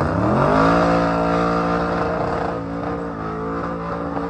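Drag race car under full throttle making a pass: the engine note dips at a gear change, climbs again over about a second, then holds high and steady as the car pulls away.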